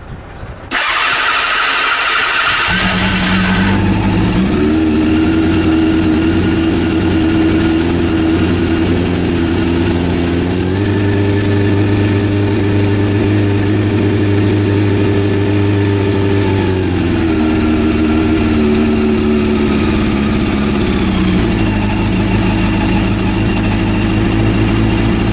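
Rebuilt Honda CB400 inline four-cylinder engine started with the electric starter: about two seconds of cranking, then it catches and runs, its speed rising and falling in steps. The freshly rebuilt engine starting and running on the third start test after earlier failures.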